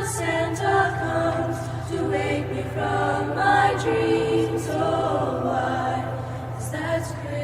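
School choir singing a Christmas song together, many voices on sustained, changing notes, over a steady low hum.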